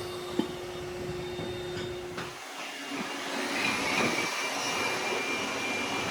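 Factory machinery running steadily: a low hum with a single sharp knock just after the start. A little over two seconds in it changes abruptly to a thinner noise with a high, steady whine.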